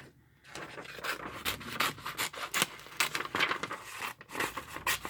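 Paper rustling and scraping in quick irregular bursts as paper pieces are handled and slid across a work surface.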